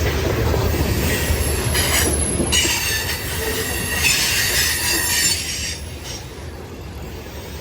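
Freight cars of a unit grain train rolling past with a steady low rumble, their wheels squealing in high, shrill tones from about two seconds in until about six seconds in.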